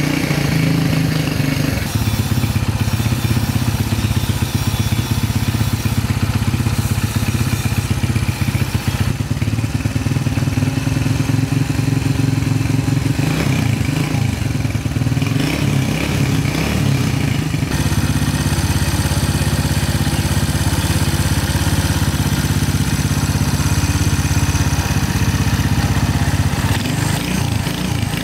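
Restored Honda Win 100cc motorcycle engine running steadily, uneven through the middle and evening out about two-thirds of the way in.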